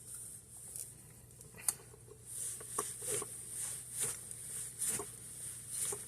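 Bearings of a Modern Fan Company Cirrus's K55-type ceiling fan motor being turned by hand: a faint, pulsing dry hiss with small clicks about once a second. This is the minor dry bearing noise of a used motor.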